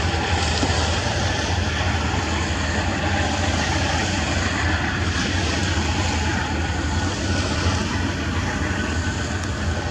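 Steady rumble of an Amtrak Superliner bilevel passenger train rolling along the track.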